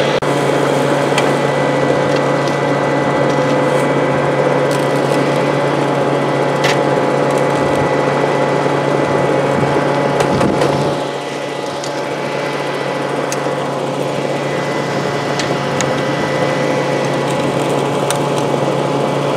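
Small gasoline engine of a dry washer's blower running steadily, with scattered sharp clicks of gravel and rock. The sound drops a little in level about eleven seconds in.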